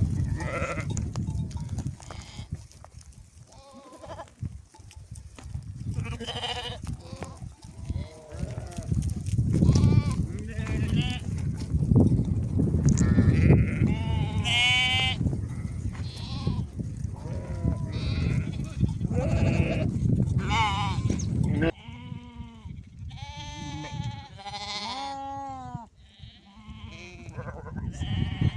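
A flock of sheep bleating: many overlapping wavering calls from different animals, one after another. A low rumble runs underneath and stops abruptly about three-quarters of the way through.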